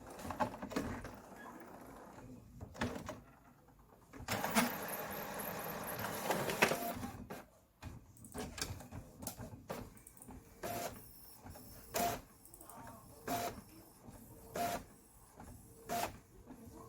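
HP 8100 inkjet printer working: a steady mechanical run of about three seconds, then a series of short clicks about every second and a bit, with a thin whine behind them.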